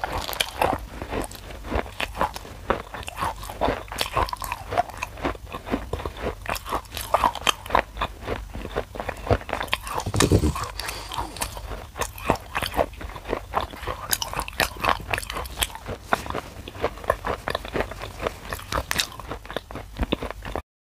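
Close-miked chewing of crunchy dry clay: a rapid run of sharp crunches and bites, with a louder bite about ten seconds in.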